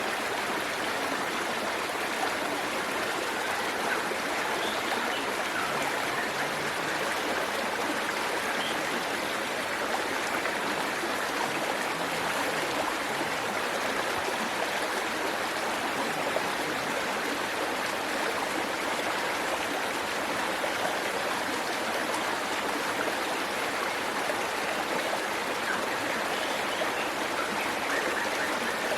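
Waterfall water rushing steadily, an even, unbroken hiss of falling and flowing water.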